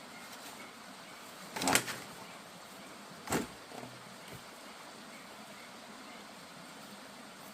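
Two sharp knocks about a second and a half apart, the first the louder, followed by a couple of faint taps, over a steady background hiss.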